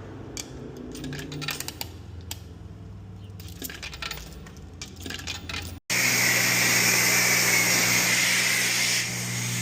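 A rapid run of metallic clinks and clicks, like coins dropping into a self-serve car wash bay's coin box. About six seconds in, after a cut, a high-pressure wash wand sprays with a loud steady hiss over the low hum of the pump.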